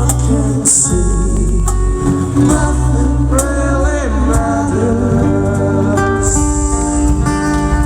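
Live band music with a sung vocal line over guitar and a strong bass.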